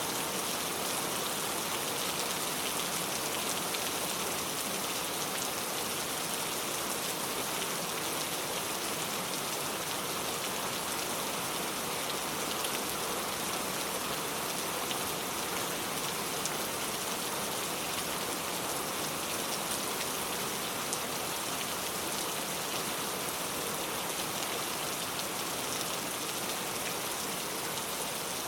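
Steady rain falling, a continuous even hiss with small scattered drop ticks.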